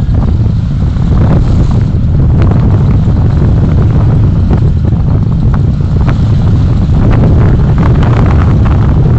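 Road vehicle on the move, recorded with heavy wind buffeting on the microphone: a loud, steady low rumble with scattered short knocks and clatters from the road.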